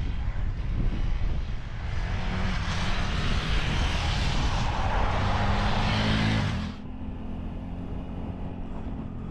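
Motorcycle engine running under rushing wind while riding, the engine note rising a little as the wind noise swells. The rush cuts off suddenly about two-thirds of the way in, leaving a steadier, quieter engine hum.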